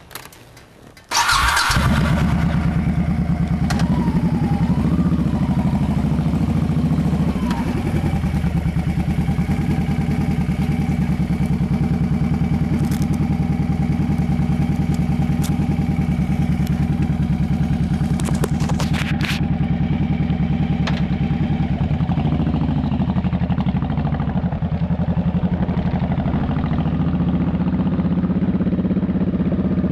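Honda Shadow Sabre's V-twin engine, with a DynoJet re-jet kit in the carburettors and Vance & Hines Longshot exhausts, fires up about a second in and then runs steadily with an even beat.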